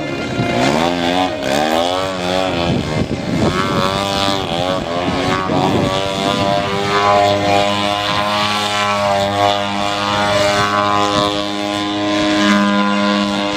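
Gasoline engine of a large radio-controlled Extra 300 aerobatic model plane, its pitch swinging up and down with the throttle during the first half, then running at a steady pitch.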